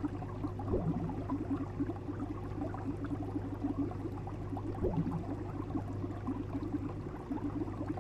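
Water bubbling and gurgling in a dense patter over a steady low hum, with two brief rising gurgles, about a second in and near five seconds.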